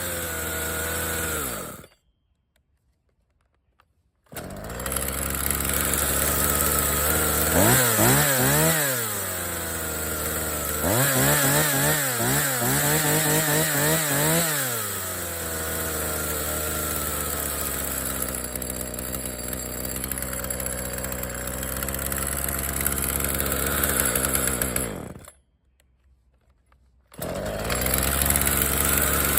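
Two-stroke petrol chainsaw engine idling and being revved in short throttle blips, then held at higher revs for a few seconds. The sound cuts out suddenly twice, for about two seconds each time.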